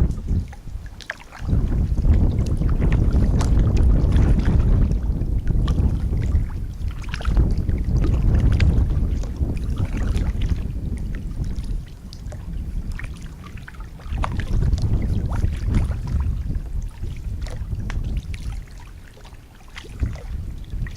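Kayak paddling: the paddle dipping and dripping, with scattered small splashes and clicks. Wind buffets the microphone throughout as a loud, uneven low rumble.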